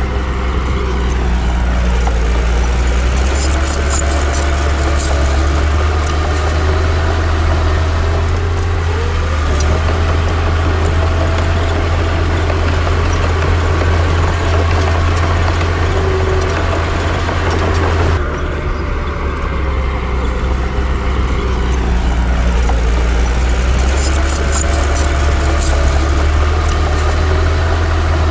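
Heavy diesel earthmoving machinery running under load, its engine note rising and falling, with occasional metallic clanks. The sound changes abruptly about two-thirds of the way through.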